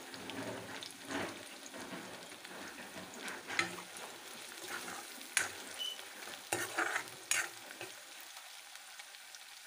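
Sliced onions and ginger-garlic paste sizzling steadily in hot oil in a steel kadai, while a metal spoon stirs them, clicking and scraping against the pan several times.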